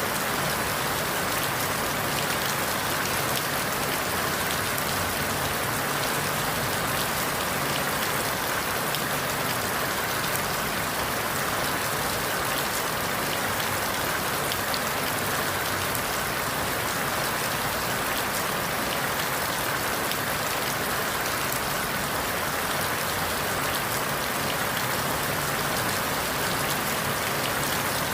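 Steady rain falling on forest leaves, an even hiss of many drops with small ticks of single drops, unchanging in level.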